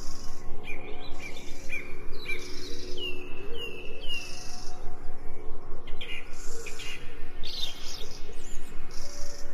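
Wild birds chirping and calling in many short notes, including three falling chirps in quick succession about three seconds in, over a steady low drone.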